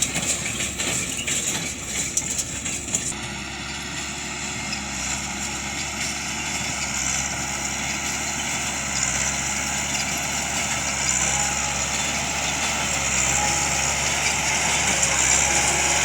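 Farm tractor engine running steadily, growing gradually louder, with metallic clinking and rattling over the first few seconds.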